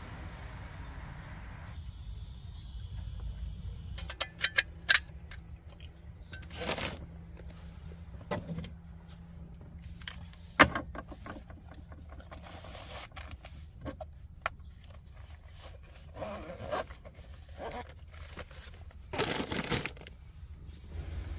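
A string of clicks, knocks and scrapes from small objects being handled, with a few sharp knocks and a longer scraping rustle near the end, over a steady low hum of road traffic.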